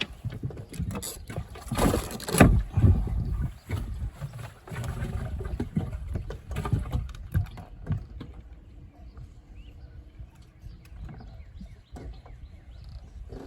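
Handling noise in a small fishing boat: knocks, rattles and clicks as a just-landed crappie is dealt with, busiest for the first eight seconds or so, then fainter scattered clicks.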